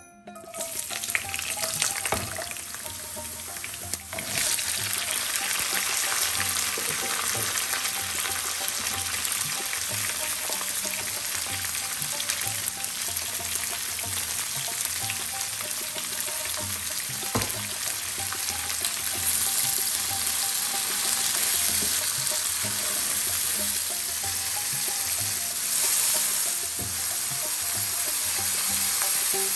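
Sliced onions, garlic and whole spices sizzling in hot oil in a nonstick wok, stirred now and then with a wooden spoon. The sizzle starts at once, grows louder about four seconds in, and surges briefly near the end as water is poured into the pan.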